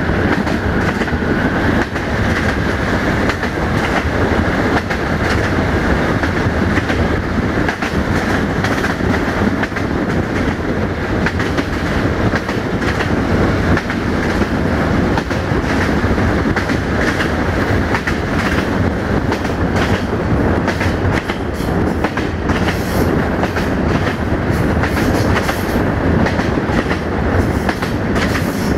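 DH2 diesel railcar running at speed on jointed track, heard from an open window: a steady rumble and rush with a regular clickety-clack of the wheels over the rail joints. A faint high squeal comes in near the end as it enters a curve.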